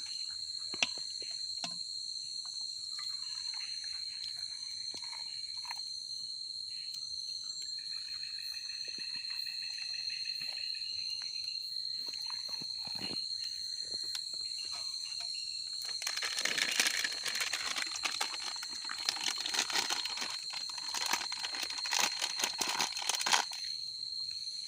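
Forest insects, crickets among them, chirring steadily in one high, unbroken tone. Late on, a few seconds of rustling, crinkling noise with many small clicks.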